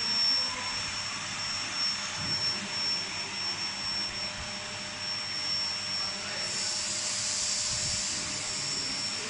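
Vacuum cleaner running, a steady rush of air with a thin high motor whine over it; the hiss turns brighter about six and a half seconds in.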